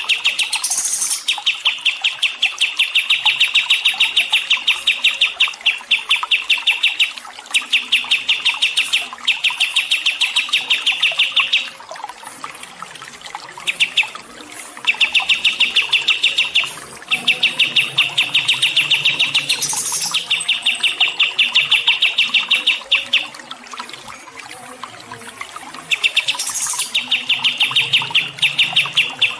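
A small songbird singing a fast, even trill of rapid repeated chirps in phrases a few seconds long, separated by brief pauses, with three short, sharper, higher calls mixed in.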